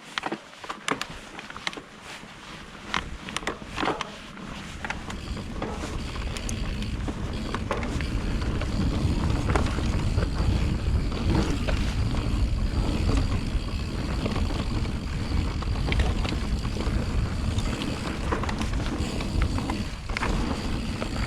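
Mountain bike riding on a trail, recorded by a chest-mounted GoPro Hero 7 Black under a fur wind muff: sharp clicks and rattles from the bike in the first few seconds, then a low rumble of wind and tyres that builds from about five seconds in and holds steady, the wind noise dulled by the muff.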